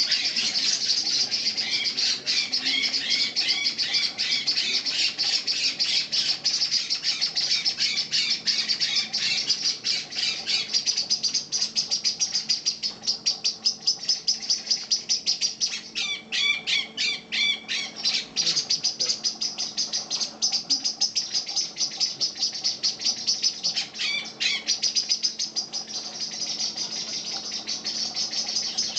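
Eurasian blackbirds giving a fast, unbroken run of high-pitched alarm calls, the scolding of parent birds defending their young from a cat. Louder, lower chirping calls break in near the start, for a couple of seconds past the middle, and again briefly near the end.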